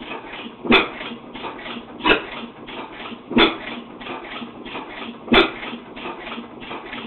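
1912 ARACO 4 hp hot-tube hit-and-miss engine running on propane: four sharp exhaust bangs at uneven gaps of one to two seconds, with a quieter clatter of the engine coasting between them. The uneven gaps come from the hit-and-miss governor, which lets it fire only when the flywheel slows.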